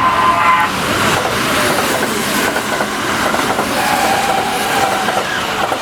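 Train passing close by: a steady rumble of its wheels running on the rails.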